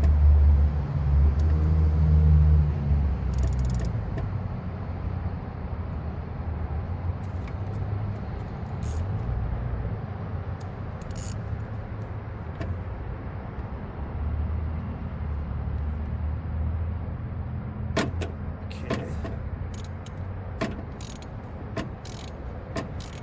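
A low rumble, loudest in the first three seconds and then fading, followed by a scatter of sharp clicks and taps in the last five seconds, as of hand tools knocking against metal parts under a car's hood.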